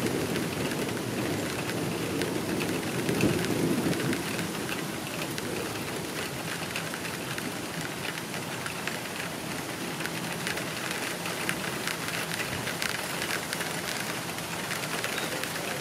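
Steady rain falling, with many fine drop ticks on nearby surfaces. A heavier low rush runs through the first few seconds, then eases.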